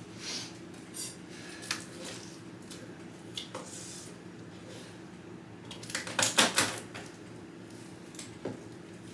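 Knife knocking on a cutting board as raw pork is sliced into bite-size pieces: scattered single taps, and a quick clatter of several louder knocks a little past the middle, over a faint steady low hum.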